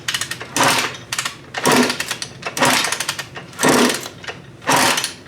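Suzuki RM125 two-stroke dirt bike being kicked over about once a second, each kick bringing a short, harsh burst from the engine and exhaust. The owner calls it a backfire from unburnt fuel, from an engine that has gas and spark but won't start.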